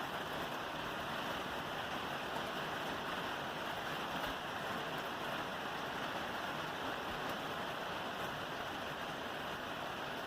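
Steady rain falling on a roof: an even, unbroken hiss with a few faint drop ticks.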